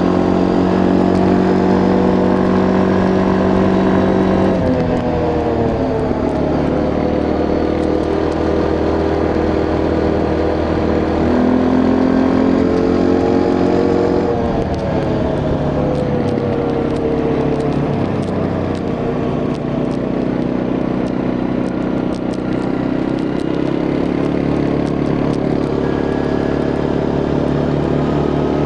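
Quad bike engine running under way, its note falling a few seconds in, picking up again about midway, then easing off once more, over road and wind noise.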